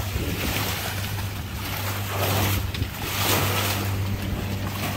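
Small yacht's engine running steadily under way at a low, even hum, with wind and water noise over it.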